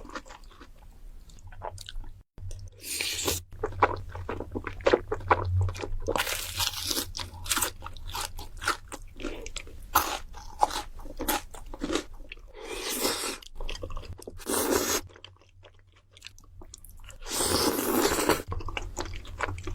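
Close-up eating sounds: crisp crunches and wet chewing of food, in quick clusters with several longer noisy stretches between them.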